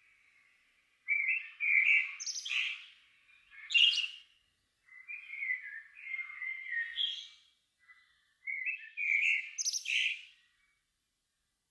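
A songbird singing three phrases of varied warbled notes, each a couple of seconds long, separated by short pauses.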